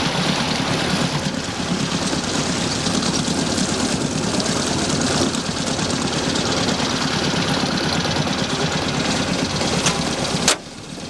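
Boat motor running steadily with a rapid, even firing rhythm; it cuts off suddenly near the end.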